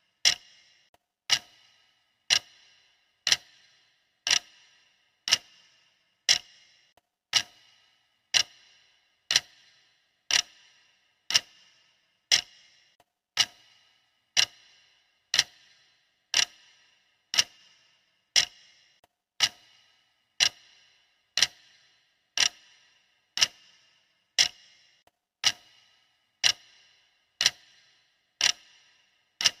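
Clock ticking steadily, one sharp tick about every second: the continuous ticking of a countdown timer.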